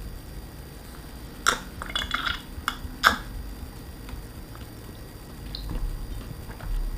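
A few light clicks and clinks of eating utensils against dishes as food is handled, spread over a second and a half, with quiet between.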